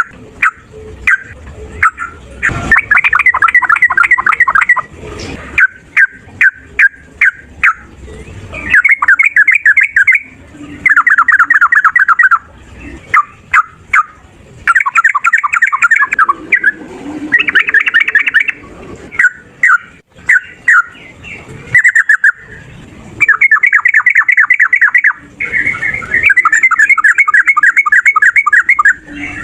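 Sooty-headed bulbul (trucukan) singing loudly: short single whistled notes alternating with long, fast rolling trills of two to three seconds, the long 'ropel' song of a male in full song, as in a fighting challenge.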